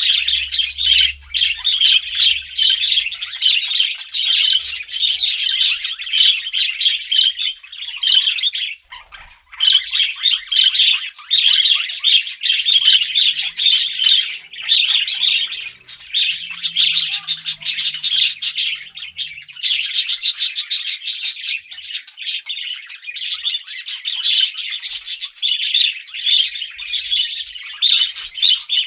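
Budgerigars chattering and warbling in a continuous stream of fast chirps and squawks, with a brief lull about nine seconds in.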